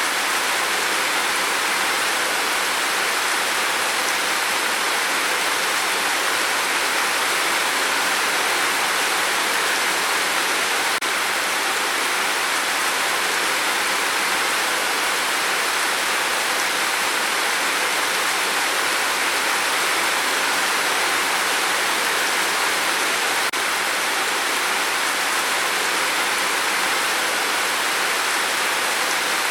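Steady heavy rain on a tin roof: a dense, even hiss with no single drops standing out.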